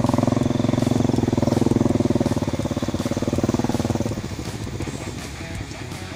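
Motorcycle engine running at a steady speed, then easing off about four seconds in to a quieter, rougher run.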